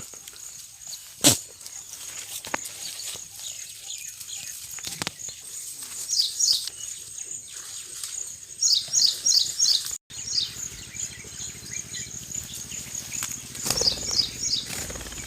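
Outdoor rural ambience: an insect trill pulsing steadily and evenly, with birds breaking in several times with short runs of quick, falling chirps. A single sharp click a little over a second in.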